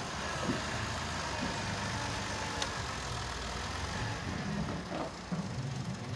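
A motor vehicle engine running steadily, with a few light clicks.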